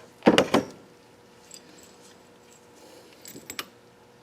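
Two quick knocks about a third of a second in, then a few light clicks near three and a half seconds: hard objects being handled.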